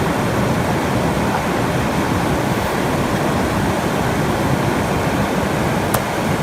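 Steady, even rushing of water, with a single faint click near the end.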